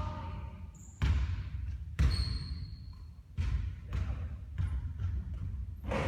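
A basketball bouncing on a court floor, about six thuds at uneven spacing, the loudest about one and two seconds in.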